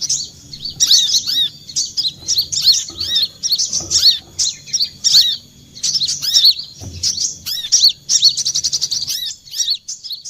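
Brown-throated sunbird (kolibri kelapa) song played as a lure call: quick phrases of high, arching chirps, broken by short pauses, with a rapid trill near the end. A faint low hum runs underneath.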